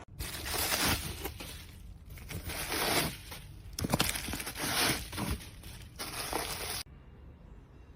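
Crinkling and rustling handling noise in several bursts, with a sharp click about four seconds in; it cuts off abruptly near the end.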